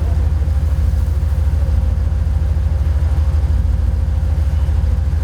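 Nissan GQ Patrol off-road truck's engine running steadily, heard on board as a constant low drone.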